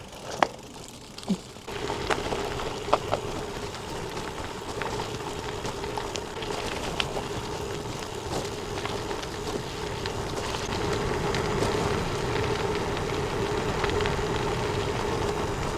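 Gravel bike tyres rolling over a loose gravel road on a downhill: a steady crunching, crackling noise that sets in about two seconds in and slowly grows louder as the bike picks up speed. A few sharp clicks of stones come before it.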